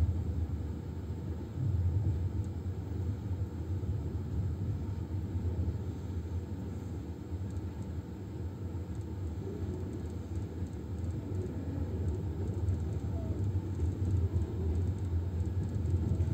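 Steady low rumble of a passenger train carriage in motion.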